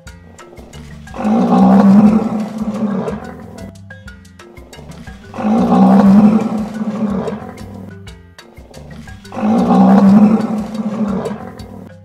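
Rhinoceros calls as a dubbed sound effect: a deep, rough roaring bellow, three times, each about two seconds long and about four seconds apart, over background music.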